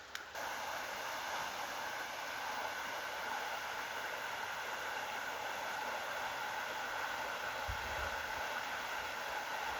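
Steady rush of the swollen Marumbi River running full, a dense even roar of fast water that steps up in level just after it begins, with a short low rumble about eight seconds in.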